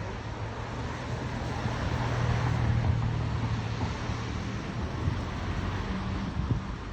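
City background noise: a steady low rumble with hiss, swelling for a couple of seconds about two seconds in, like a vehicle passing.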